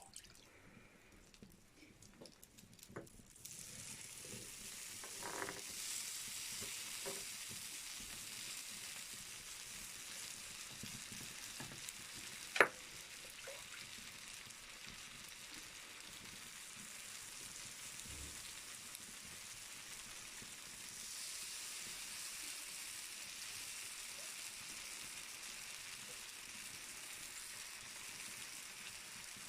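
Wood fire in a fireplace crackling: a steady hiss with scattered small pops, and one sharp, loud pop about halfway through. The first few seconds are quieter before the hiss comes up.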